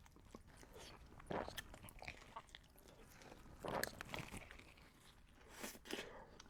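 A person biting into and chewing a burrito with butter chicken and sauce, close to the microphone. The chewing is faint, with a few separate bites and crunches, the loudest about midway.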